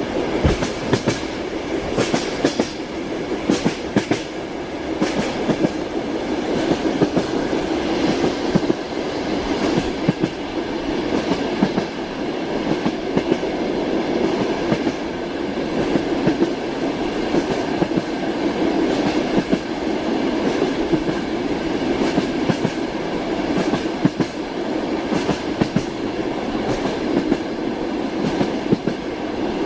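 Railway carriage wheels clacking over rail joints as a train runs along, heard inside the carriage. A steady rolling rumble carries sharp clacks every second or two.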